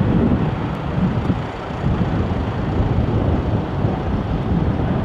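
Low jet rumble of a departing Airbus A220-300's Pratt & Whitney PW1500G geared turbofans, mixed with wind buffeting the microphone.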